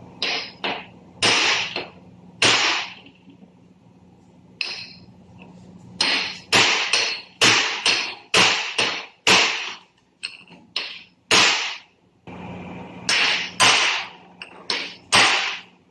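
Hammer striking metal: about two dozen sharp blows in irregular runs, several quick strikes in a row, then short pauses, each with a brief ringing tail.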